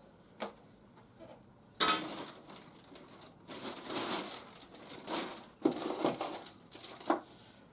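Plastic toy packaging and parts being handled during unboxing: a small click, a sharp snap about two seconds in, then several bursts of rustling and crinkling.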